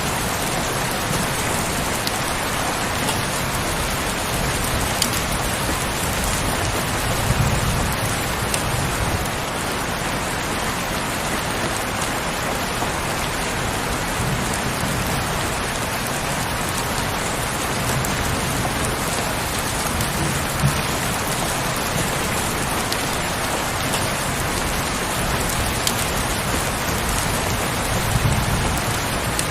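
Heavy rain falling steadily in a dense, even patter, with a few soft low rumbles swelling under it now and then.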